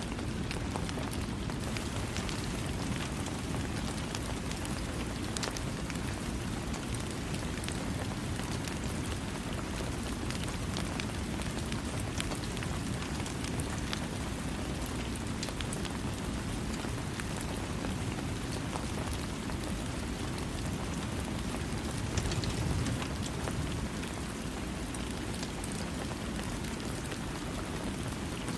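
Steady rain falling without thunder: a dense, even rush weighted toward the low end, with scattered sharp drop ticks on top. It swells briefly a little past two-thirds of the way through.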